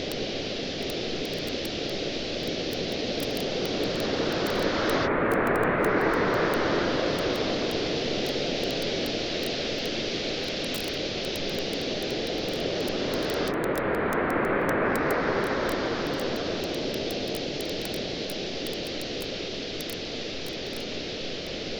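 Ocean waves washing onto a beach in a steady rush that swells twice, about every nine seconds, with the faint scattered pops of a crackling campfire.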